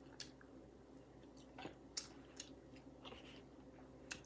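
Faint chewing of fried Cornish hen, with a handful of short, soft crunches and clicks scattered through.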